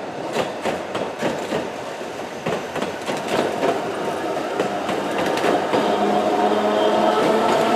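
A 762 mm narrow-gauge electric train passes close by, its wheels clicking over the rail joints. In the second half a steady whine joins in and the level rises.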